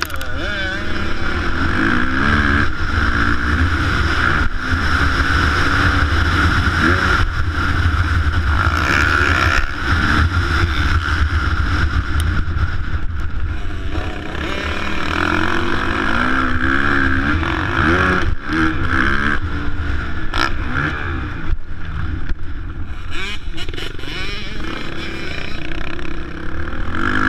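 Motocross motorcycles running on a dirt track, their engines revving up and down repeatedly, over heavy wind rumble on the microphone.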